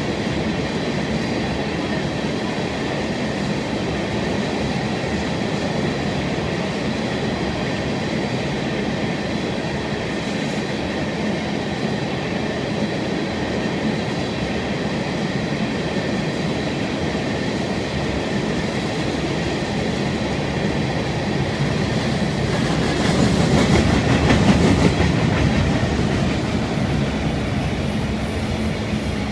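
Florida East Coast Railway freight cars, tank cars and then autoracks, rolling past close by: a steady rumble of steel wheels on the rails. It swells louder for a few seconds about three-quarters of the way through.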